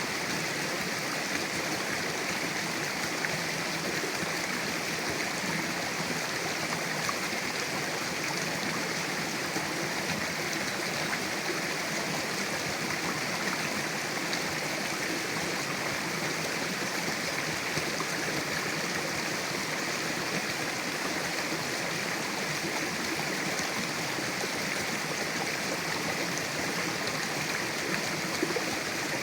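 Mountain river flowing over rocks: a steady rush of water with no let-up or change.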